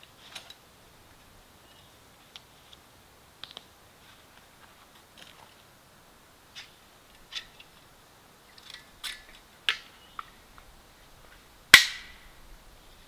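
Light clicks, taps and rustles of camping gear being handled, with one sharp snap near the end. It fits pole sections of a camp item knocking and clicking together as they are fitted.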